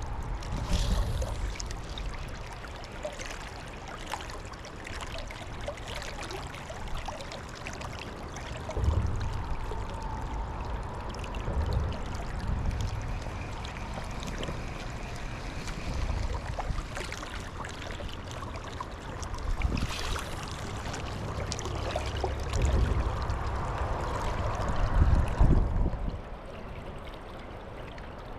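A fast, high river running steadily, with scattered low thumps and clicks over the rush of water.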